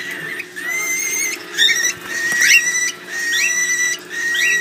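Hand-fed baby cockatiels giving food-begging calls: a continuous string of high calls, several rising quickly in pitch.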